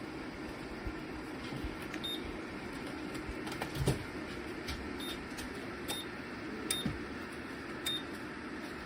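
Ceramic fan heater's fan blowing steadily, with five short electronic beeps about 2, 5, 6, 6.7 and 8 seconds in, each with a click, as its settings are changed.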